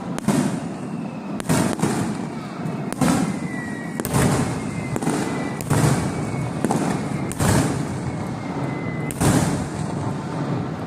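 Aerial fireworks shells bursting: a string of sharp bangs, roughly one every one to two seconds, each trailing off in a rumble. A faint high tone glides slowly down underneath.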